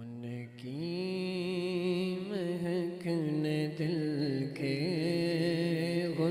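Wordless a cappella naat singing: a single low, male-range voice holds long, chant-like notes with wavering ornaments.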